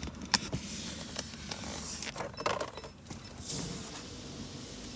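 Automatic car wash spraying coloured soap foam onto the car, heard from inside the cabin: a steady hiss with scattered knocks and clicks against the body.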